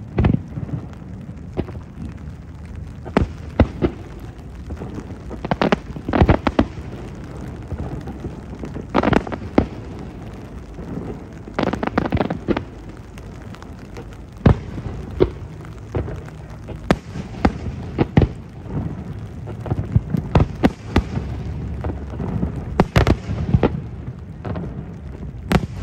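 Fireworks display: shells bursting with sharp bangs at irregular intervals, some coming in quick clusters of several together, over a steady low rumble.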